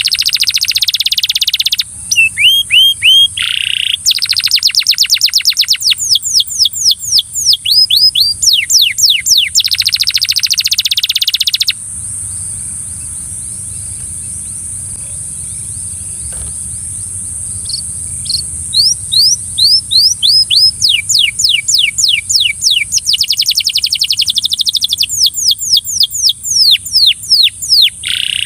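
Belgian canary singing: fast trills and rolls of repeated down-sweeping whistled notes, stopping about 12 seconds in and starting again about six seconds later. A steady high hiss runs behind the song.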